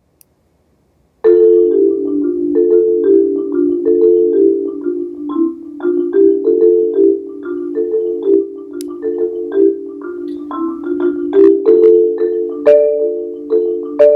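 Marimba playing, starting about a second in with a quick, steady repeating pattern of mallet-struck notes in the low-middle register, with occasional sharper accented strikes.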